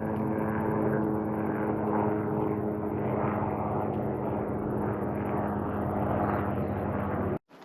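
An engine droning steadily, with a constant hum and a noisy rush over it.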